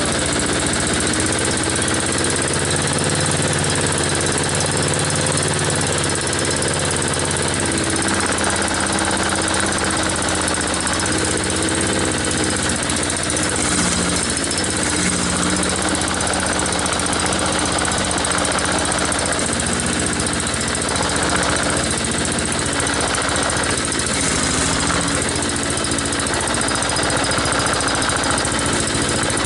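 Harbor Freight Predator single-cylinder gasoline engine on a push lawn mower, running steadily on one of its first runs after the swap, its speed wavering a little now and then.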